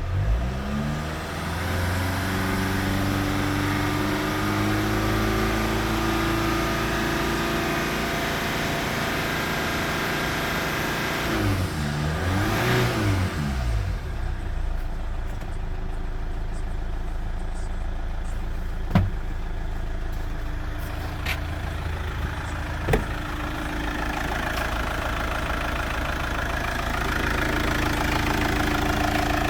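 An engine running on a test: the revs climb right at the start, then it runs steadily. Around twelve seconds in it is revved up and back down, then it settles to a steady idle. Two sharp knocks come in the second half.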